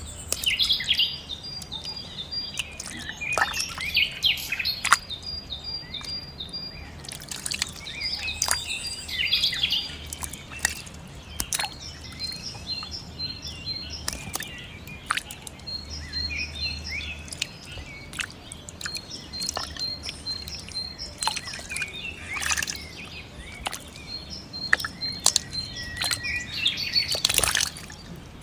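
Birds chirping and trilling in quick, repeated high calls, with scattered sharp clicks among them.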